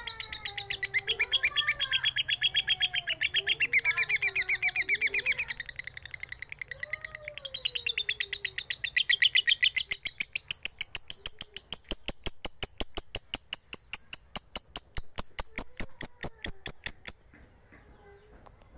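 A lovebird giving a long, fast run of shrill repeated chirps that stops abruptly about 17 seconds in, loudest around the fourth and fifth seconds. Fainter, lower gliding calls sound beneath it during the first half.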